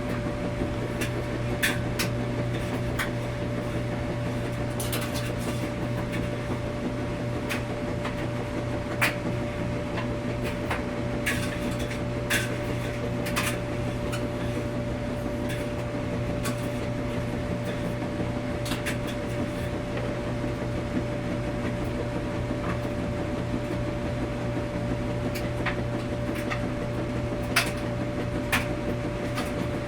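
Washing machine running with a steady hum and a constant tone, with scattered light clicks and knocks at irregular moments.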